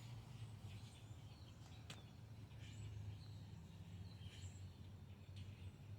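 Near silence: a low steady hum with faint, scattered bird chirps and a faint click about two seconds in.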